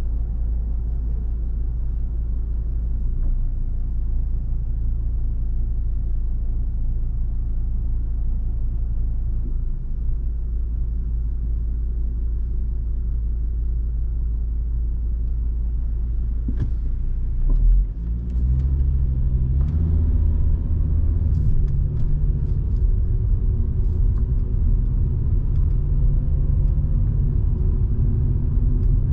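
Volvo V70 2.5T's turbocharged five-cylinder engine and road rumble while driving, steady at first. About 18 seconds in the sound dips briefly, then the engine note climbs in steps as the car accelerates, with a few faint clicks.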